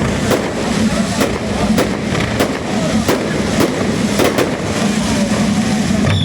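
Fireworks display: a steady run of bangs, roughly one every half second, over a continuous rumble and crackle of bursting shells.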